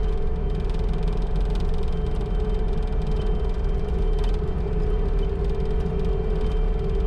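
A vehicle's engine running steadily while driving: a low rumble with a constant hum over it.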